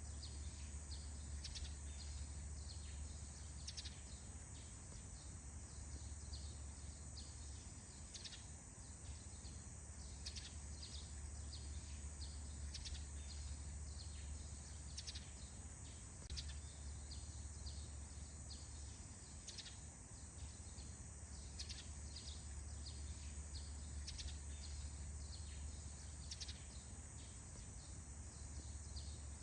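Birds chirping, many short quick calls scattered throughout, over a steady high-pitched insect-like drone and a low steady rumble.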